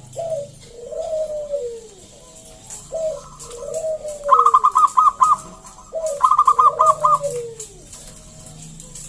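Zebra dove (perkutut) cooing: a string of short falling coos, broken twice, about four and about six seconds in, by a rapid run of higher staccato notes, the loudest sounds in the stretch.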